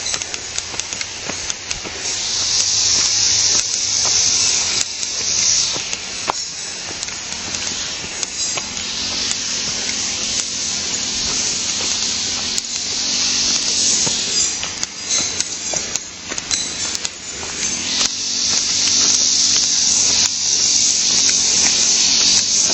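Flowing stream water: a steady rushing hiss that swells and eases every few seconds.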